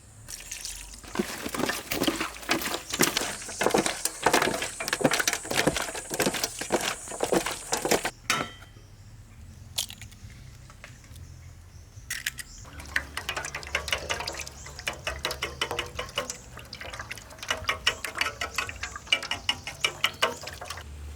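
Wet squelching and splashing as frog pieces are mixed with soy sauce, lemon juice and seasonings for a marinade. It comes in two bouts of quick, dense squishes with a quieter pause in the middle.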